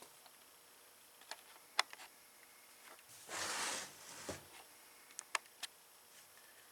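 Small engine parts being handled: scattered light clicks and taps of plastic and metal, with a brief rustle about three and a half seconds in.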